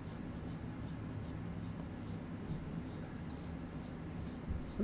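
Seiko 6138 watch movement being wound, its mainspring ratchet giving a steady run of small, high clicks, about two to three a second, over a faint steady low hum.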